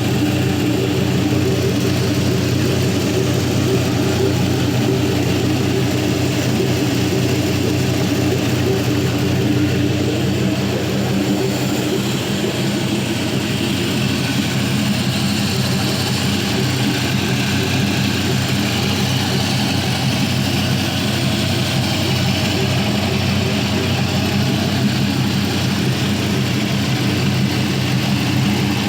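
Chevrolet 4.8L LR4 V8 (Gen III LS) running steadily at idle, warmed up, with an even rumble.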